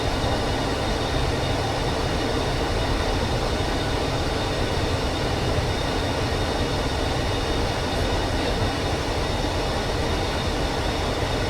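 Steady flight-deck noise of a Boeing 737 in flight on approach: a constant rushing rumble of airflow and engines.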